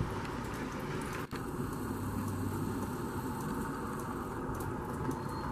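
Steady rain falling, a continuous even wash of noise with a brief dropout about a second in.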